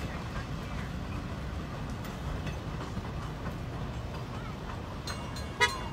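Passenger train rolling away along the track: a steady low rumble of its wheels on the rails. Near the end, two short, loud, ringing signal blasts cut in.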